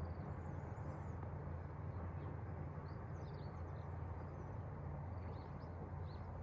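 Small birds chirping in short high calls over a steady low engine hum from a diesel train.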